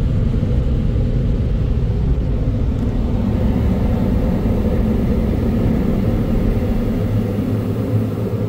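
Car wash blower dryers running steadily over the car, a dense, loud rumble heard from inside the cabin, easing a little near the end.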